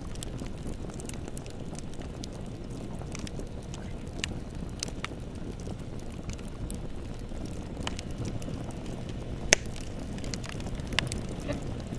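Bonfire burning: a steady low roar of flames with irregular sharp crackles and pops, one pop much louder than the rest about three-quarters of the way in.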